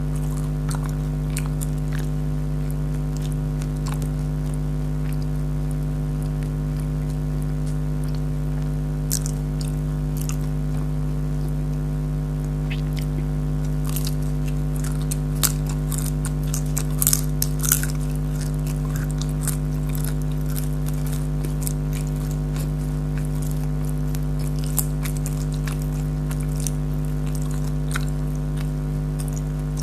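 Crisp bites and chewing of syrupy fried jalebi: scattered sharp crackles, busiest about halfway through, over a steady low hum.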